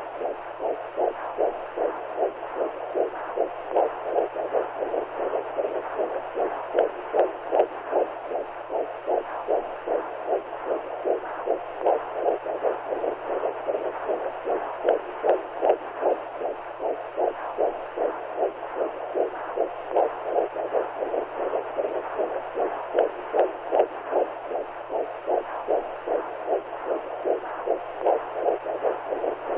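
Womb sound for soothing a newborn: a steady whooshing noise that pulses in quick, regular beats like a heartbeat heard through the body, over a faint low hum.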